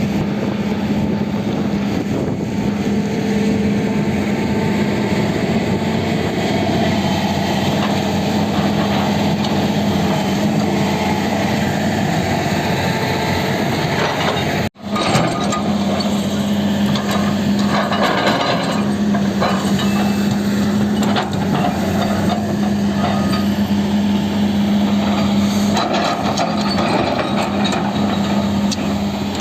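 Diesel engine of heavy earthmoving machinery running steadily under load, with a brief cut a little past halfway and scattered clattering knocks in the second half.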